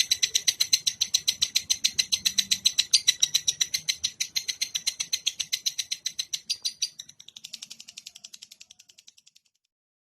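Recorded songbird call: a rapid, even series of sharp high notes, about eight a second. About seven seconds in it drops to a quieter run that stops short of the end.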